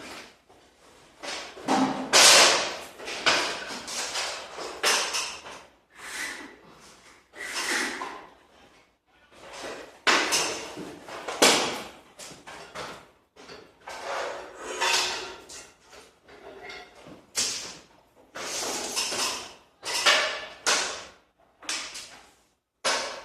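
Irregular knocks, bangs and scrapes, one after another with short gaps and no steady rhythm.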